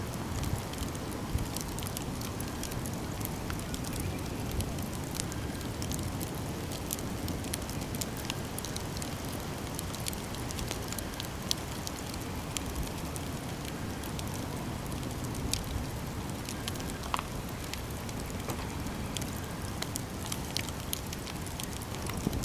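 Campfire burning: a steady low rush of flames with frequent small crackles and a few sharper pops.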